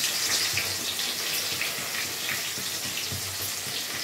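Onions sizzling in hot mustard oil in a karahi: a steady frying hiss that eases slightly.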